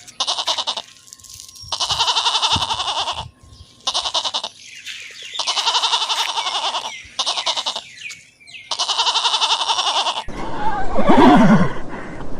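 Goat bleating six times in quavering calls of about half a second to a second and a half each. Near the end a horse whinnies, falling in pitch.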